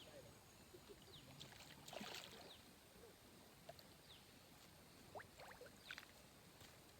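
Near silence with scattered faint, brief chirps and clicks, a few slightly louder about two seconds in.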